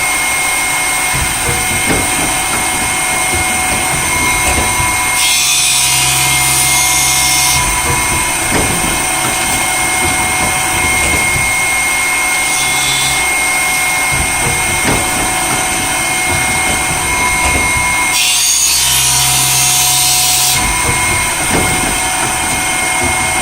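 Vollmer top grinder running on a large alternate-bevel saw blade: a steady motor whine with scattered clicks, and twice a longer hiss with a low hum as the wheel makes a grinding pass over the teeth.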